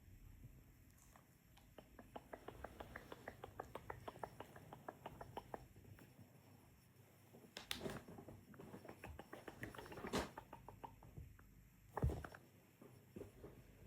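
Small dog chewing a treat, a faint quick run of crunches at about six a second, then a few louder knocks and rustles, the loudest near the end.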